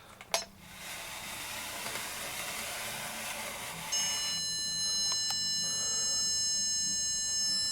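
A steady hissing noise, then about halfway in an electronic stud finder starts a continuous high-pitched beep that holds steady, its signal that it has found a stud behind the wall.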